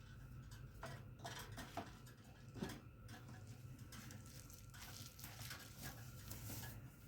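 Faint, scattered small clicks and taps, mostly in the first three seconds, over a steady low hum.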